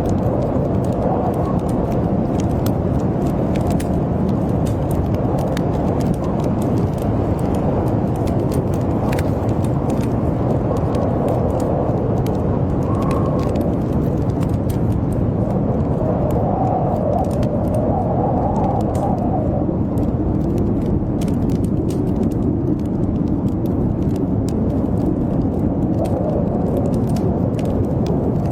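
Blizzard wind blowing steadily, with a howl that rises and falls, mixed with the scattered small crackles of a wood fire burning in a fireplace.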